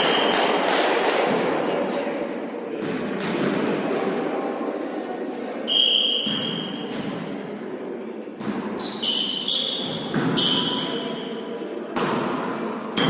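A volley tennis rally: repeated ball hits and bounces on the hall floor, with a few short high shoe squeaks on the court and voices echoing in a large hall.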